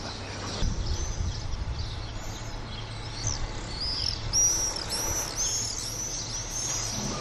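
Small birds chirping: a run of short, high, arched chirps that come about two a second and grow louder in the second half, over a low background rumble.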